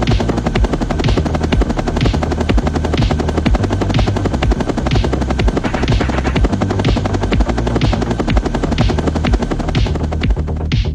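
Helicopter rotor chop, steady and loud, over electronic music with a beat about once a second; the helicopter sound drops away near the end, leaving the music.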